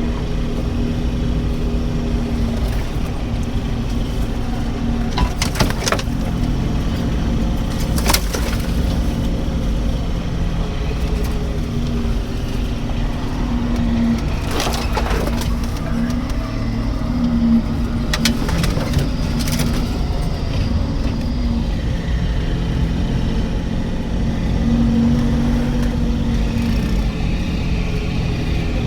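1996 Toyota Tacoma pickup running steadily as it drives slowly along a trail, with a handful of short sharp knocks spread through.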